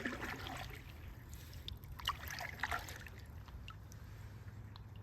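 Canoe paddles dipping and splashing in the water, two strokes about two seconds apart, the second opening with a light knock; a low steady rumble runs underneath.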